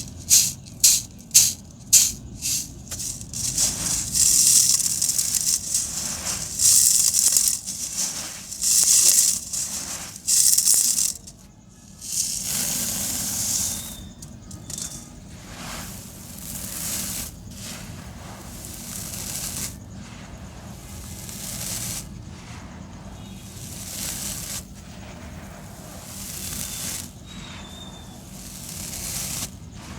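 Dry sand-cement and concrete chunks being crushed and crumbled, giving gritty, rattling crunches one after another. The crunches are loud and quick for the first ten seconds or so, then turn softer for the rest.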